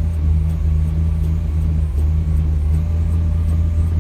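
Engine of a 1948 Mercury coupe idling steadily, still cold, with a throaty rumble from a mild cam.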